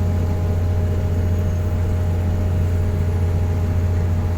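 Car driving at a steady speed: a steady low engine and road drone that does not change.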